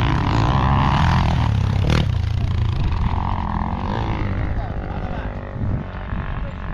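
Motorcycle engine running steadily, with one sharp click about two seconds in.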